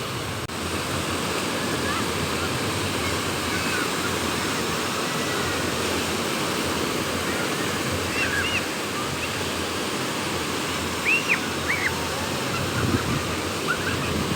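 Sea surf washing steadily onto the shore with wind, a continuous rushing noise. A few short high chirps sound about two-thirds of the way in.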